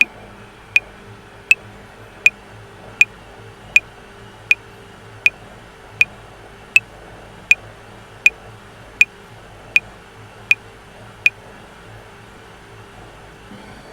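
Metronome clicking at 80 bpm in 7/4, one sharp click every three-quarters of a second, over a faint steady hiss. The clicks stop about eleven seconds in.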